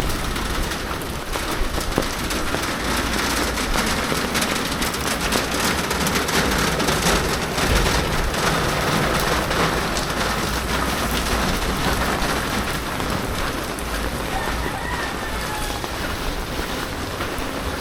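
Heavy typhoon rain falling steadily, a dense patter of drops on surfaces.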